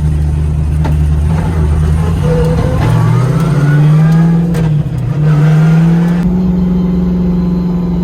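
Drift car engine under load, rising in pitch as it accelerates through a gear. There is a brief dip just before five seconds in as it shifts, then it climbs again and settles to a steady cruise.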